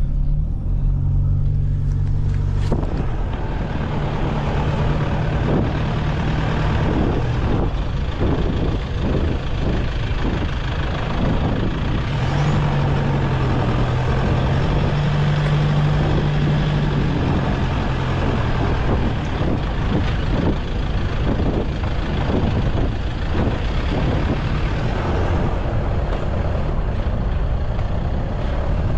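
A vehicle driving along with its engine running steadily; the engine note shifts up and down a few times. Frequent knocks and rattles sound throughout.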